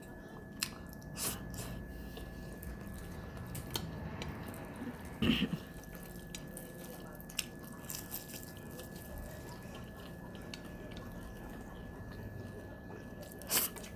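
A person eating up close: soft chewing and small mouth and food clicks, scattered irregularly, with one short louder sound about five seconds in.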